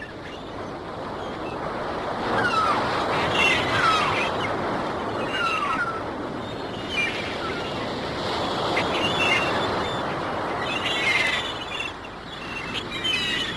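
Gulls crying in short, repeated calls over ocean waves washing steadily on the shore, with the surf swelling and easing. The calls come thickest near the end.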